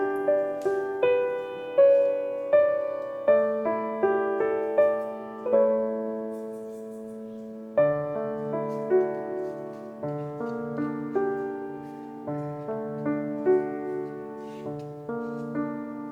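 Background piano music: a gentle melody of single struck notes, each fading away, over held lower chords.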